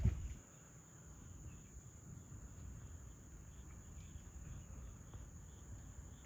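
Insects trilling steadily at a single high pitch, with a low thump right at the start and soft low rustling underneath.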